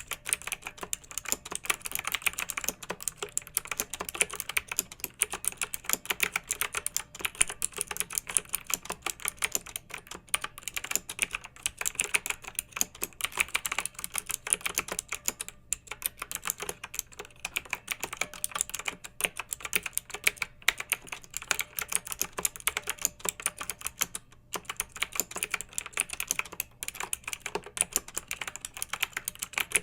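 Clicky mechanical keyboard being typed on fast and steadily, a dense run of sharp key clicks with a few brief pauses.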